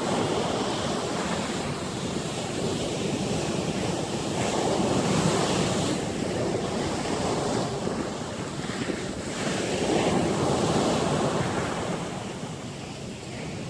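Sea surf breaking on the shore, swelling louder twice and easing between, with wind buffeting the microphone.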